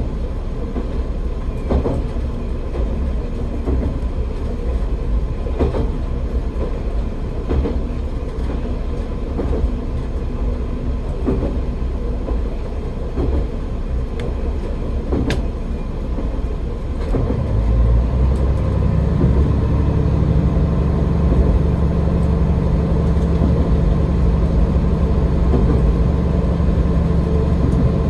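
AN-8800 diesel railcar running along the line, its wheels clicking now and then over rail joints. About 17 seconds in, the low engine drone grows louder and steadier, with a steady hum, as the engine comes under more power.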